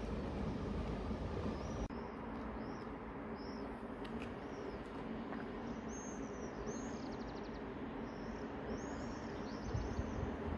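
Small birds chirping, short high calls repeating every half second or so, with one quick trill near the middle, over a steady low background rumble that changes abruptly about two seconds in.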